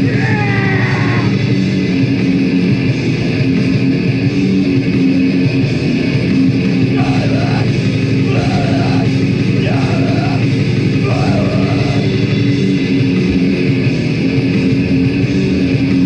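A heavy band playing live: loud, dense distorted electric guitars with bass and drums, steady throughout, with a few short bent notes or shouts cutting through about halfway.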